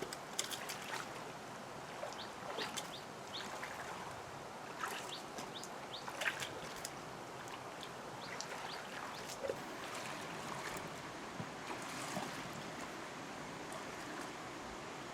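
Water trickling and splashing, with scattered short clicks and brief high bird chirps over it.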